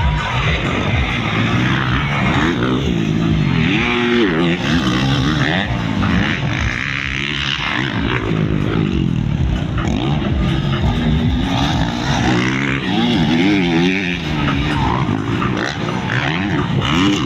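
Several motocross dirt-bike engines racing, their pitch rising and falling over and over as the riders open and close the throttle and shift through the gears.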